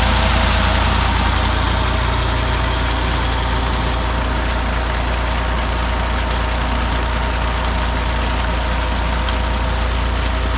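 Tractor's diesel engine running steadily under load, driving a tube well pump, with a steady hiss over its low hum.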